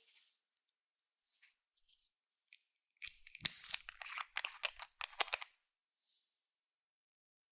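Slime being squished and stretched, a dense run of crackling, popping clicks from about two and a half to five and a half seconds in, after a few faint soft rustles.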